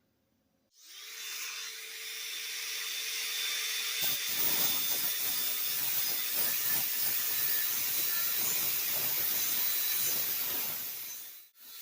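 A power grinding or sanding tool starts about a second in and runs steadily, then from about four seconds in bites into the rusty, pitted steel of a hammer head with a scratchy rasping. It cuts off sharply just before the end.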